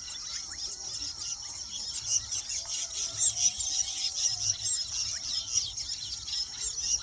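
A weaver bird colony chattering: many birds' high, rapid notes overlapping into a dense, continuous chorus, with a few lower wavering whistles beneath.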